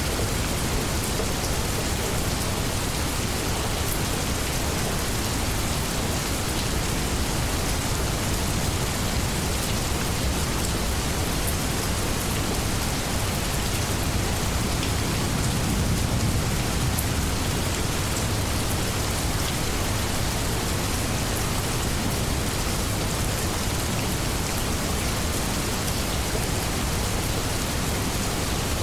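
Steady rainstorm, a dense even hiss of rain falling on leaves and surfaces, with a slight low swell about halfway through.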